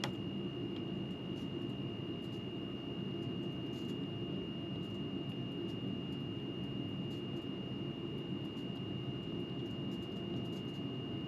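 Steady low rumbling noise with a thin, constant high whine over it.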